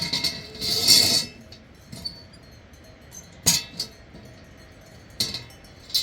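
A few sharp clinks and knocks of small hard objects, with a louder noisy rush about a second in.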